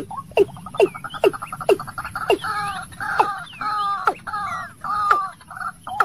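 Birds calling: a steady run of short falling notes about twice a second. From about a second in a fast trill joins them and turns into a loud bubbling, gobbling warble. A faint high steady whine runs underneath.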